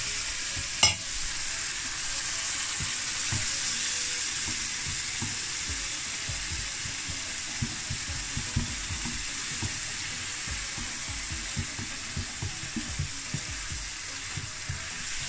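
Mashed saag frying in oil and spice masala in a pan, stirred with a silicone spatula: a steady sizzle throughout. There is a sharp knock about a second in, and soft taps and scrapes of the spatula against the pan in the second half.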